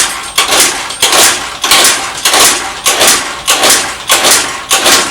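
A Honda Dio ZX scooter's 50cc two-stroke engine being kick-started in quick repeated strokes, about two a second. The engine turns over with a noisy rush on each stroke but does not catch.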